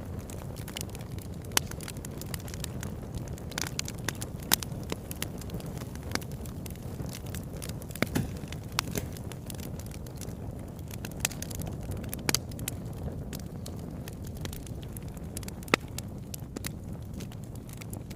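Fire crackling in a fireplace: a steady low rush of flames with frequent sharp, irregular pops and snaps.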